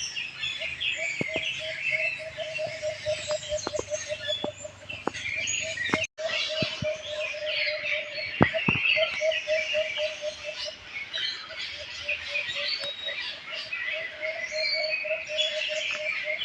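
A dense chorus of many small birds chirping and twittering over one another, with a lower call pulsing rapidly and steadily beneath them. The sound cuts out for an instant about six seconds in.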